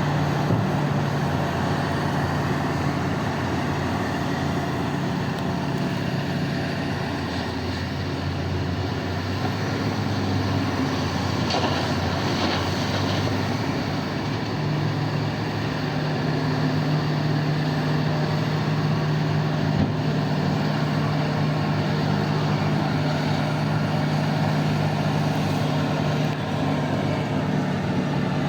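Heavy diesel mining machinery running steadily, a deep, even engine drone with mechanical noise over it.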